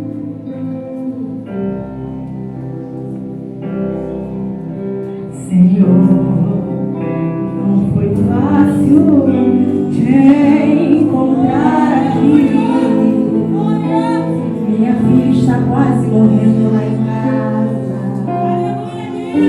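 Church worship music: slow held chords, then singing voices come in about five and a half seconds in and carry on over the accompaniment, louder than the opening.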